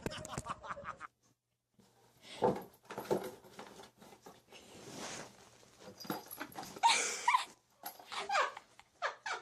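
A pet animal giving short, high whining cries, the loudest about seven seconds in, between other brief handling noises.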